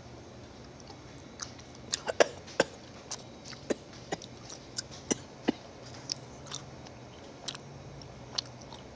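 Close-miked chewing of small tteokbokki rice cakes (jorangi tteok): irregular wet mouth clicks and smacks, about fifteen of them, with the loudest cluster about two seconds in.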